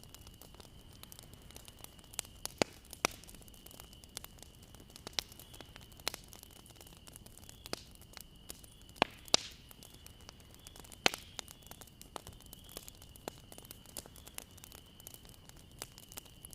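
Bonfire burning: wood crackling with irregular sharp pops and snaps over a soft hiss, the loudest pops about nine and eleven seconds in. A faint steady high tone runs underneath.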